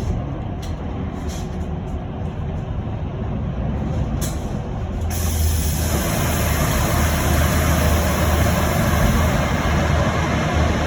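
Electric bus interior: a steady low hum with a few clicks, then about halfway through a sudden hiss of compressed air from the bus's pneumatic system that carries on as the noise slowly grows.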